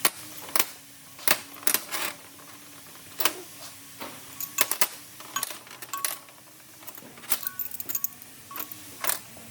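Irregular sharp metallic clinks and taps, a dozen or so, from tools and metal parts being handled during engine work, over a faint steady hum.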